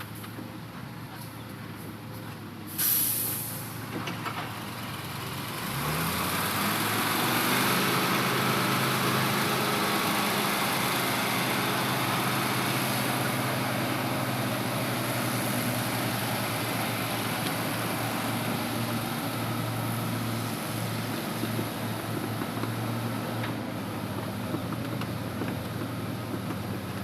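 A truck's air brakes release with a short sharp hiss, then its diesel engine revs up and runs steadily under load as the log truck pulls away.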